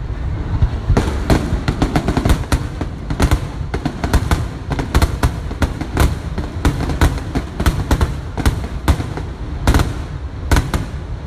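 Aerial fireworks display: a rapid, irregular string of sharp bangs and crackles, several a second, over a continuous low rumble of bursts.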